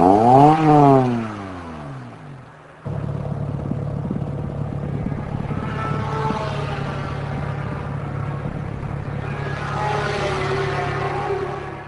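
A tuned Honda with an aftermarket exhaust passes at speed, its engine note rising then dropping as it goes by. After an abrupt cut there is a steady engine drone at a constant pitch, which ends suddenly near the end.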